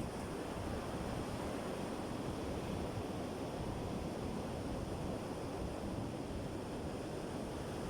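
Steady, even rush of sea surf mixed with wind, with no single wave break standing out.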